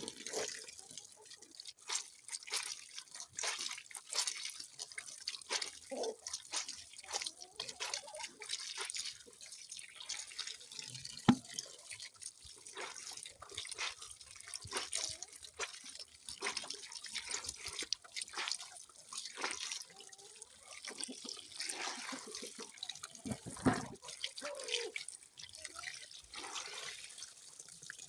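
Water dripping and splashing in quick, irregular drops, as from a tap into a sink. There are two louder splashes, about 11 and 24 seconds in.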